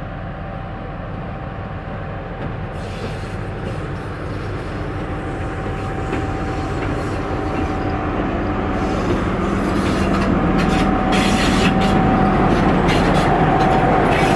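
A train drawing steadily closer and louder on the track, its running gear rumbling. A steady high tone runs through it, and clicking and rattling from the wheels and cars builds up over the second half.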